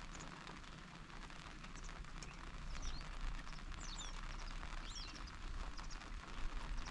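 Small birds chirping several times in short, high calls, over a steady outdoor background noise.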